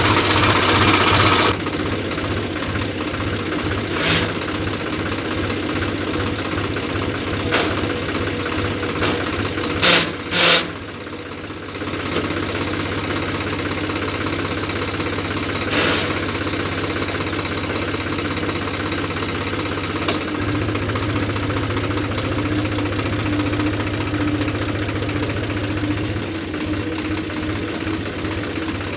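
Tractor engine running steadily after being started, with a deep, even hum. A few short sharp knocks cut through, the loudest two close together about ten seconds in.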